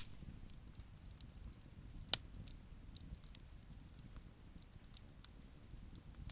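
Wood bonfire crackling, with faint scattered snaps and one sharp pop about two seconds in.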